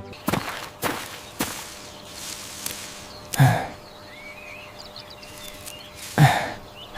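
Three quick knocks, then a cartoon character's voice making three short wordless sounds, each falling in pitch.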